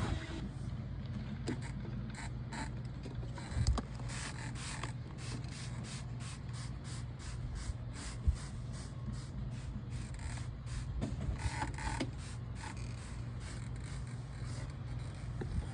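Irregular light clicks and taps, a few to several a second, over a steady low hum.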